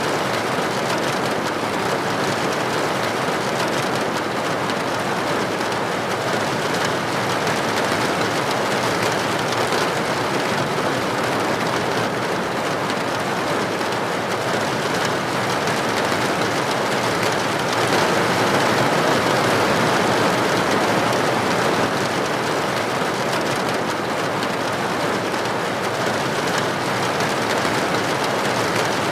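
Steady rain falling: a dense, even hiss of countless drops, with no single drop standing out. It grows a little louder for a few seconds about two-thirds of the way through.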